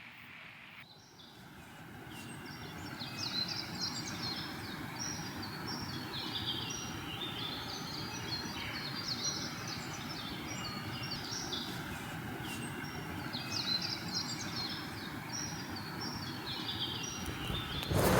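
Several birds singing outdoors, many short repeated chirping phrases overlapping, over a steady rushing background noise that swells about two seconds in. A sudden louder rush of noise comes in at the very end.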